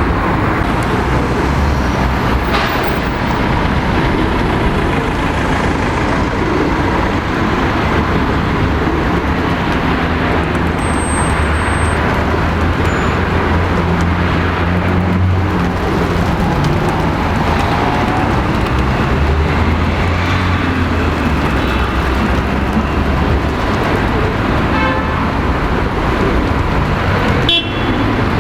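Busy city road traffic: engines and tyres running steadily past, with heavier vehicles rumbling low as they pass, and a short horn toot near the end.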